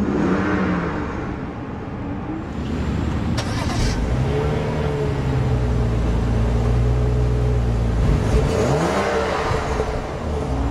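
2011 BMW 535i's 3.0-litre turbocharged inline-six running just after start-up. Its note steps up about four seconds in and holds steady, then dips and rises again near the end.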